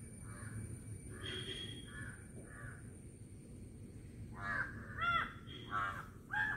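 A bird calling in a series of short calls: a few fainter ones, then four louder ones in quick succession from about four and a half seconds in.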